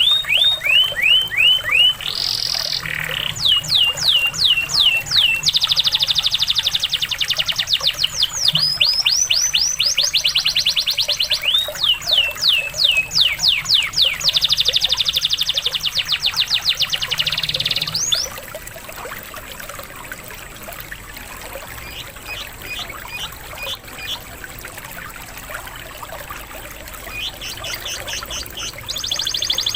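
Canary song: phrases of repeated downward-sweeping whistled notes alternating with fast, rapid-fire trills, over a steady trickle of running water. The song fades to faint trills a little past the middle and comes back strongly near the end.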